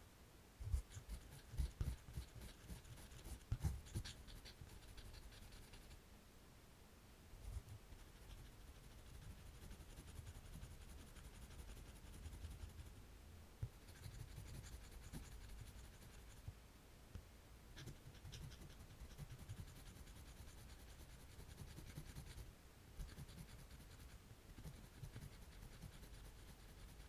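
Faint scratching of a drawing tool on paper, stroke after stroke, with a few soft low knocks from handling in the first few seconds.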